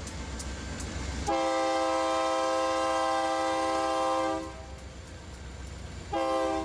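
Diesel locomotive's multi-chime air horn sounding one long blast of about three seconds, then a short blast near the end, over a low rumble of the train.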